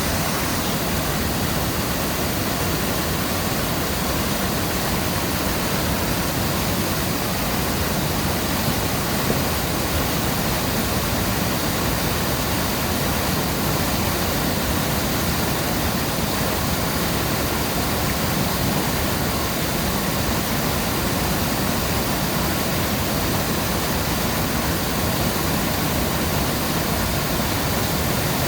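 Floodwater pouring over a dam, a steady, unbroken rush of water; the dam is running in flood after heavy hurricane rain.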